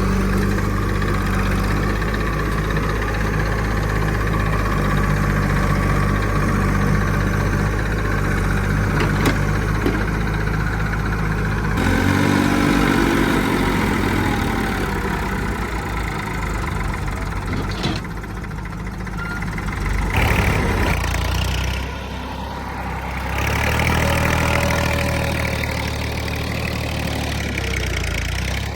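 Diesel engines of heavy machinery running and idling, with a brief rev that rises and falls in pitch about twelve seconds in. The engine sound changes abruptly several times.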